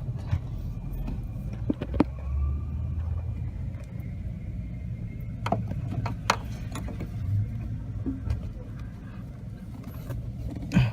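Scattered sharp clicks and a louder knock near the end as tools and metal parts are handled while adjusting a car's clutch cable, over a low steady rumble.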